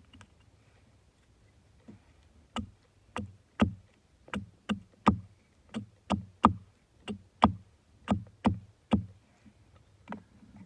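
A series of about fifteen sharp blows, roughly two a second, each with a short dull ring, starting about two and a half seconds in and stopping about nine seconds in, with one more blow near the end.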